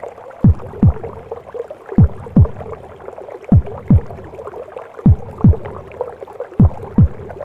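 Heartbeat as heard from inside the womb: slow, deep lub-dub pairs of thumps, five pairs in all, over a steady whooshing womb noise.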